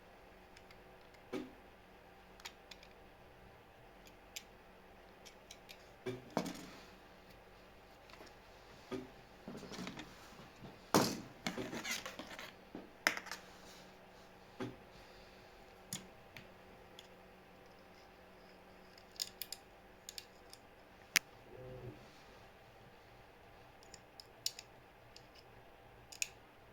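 Irregular clicks, taps and light clatter of small hard objects being handled, with a busier run of louder knocks around the middle.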